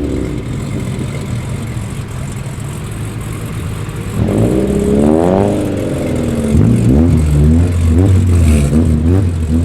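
Car engines running low and steady as cars drive in, with revs blipped up and down: one rev rising and falling about four seconds in, then several shorter blips in the second half over a louder low engine note.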